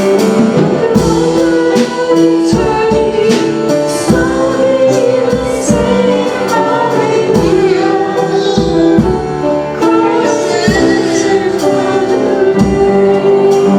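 A worship band playing a song with singing, with a beat of drum hits.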